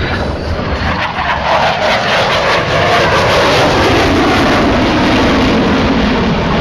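F-22 Raptor's twin Pratt & Whitney F119 afterburning turbofans growing loud as the jet fighter flies past, the engine noise falling steadily in pitch.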